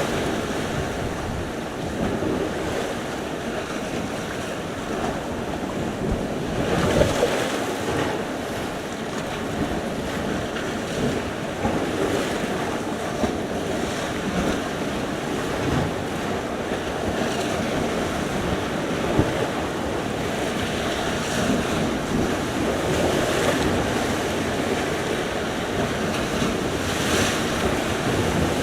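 Sea surf: waves breaking and washing ashore in a continuous rushing wash that swells now and then, with wind buffeting the microphone.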